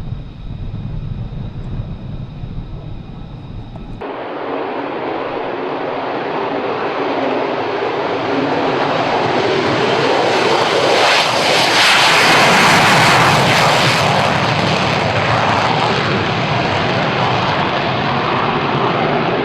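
F-35 fighter jet engine noise: a low rumble for the first few seconds, then an abrupt switch to a loud rushing jet sound that swells to a peak about two thirds of the way in and stays loud.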